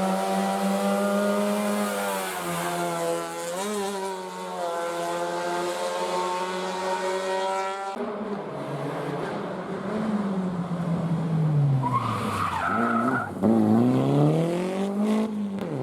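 Rally car engines at racing revs: one engine holds high revs and then shifts. After an abrupt change about halfway, an engine's revs drop and climb again twice, with a brief tyre squeal.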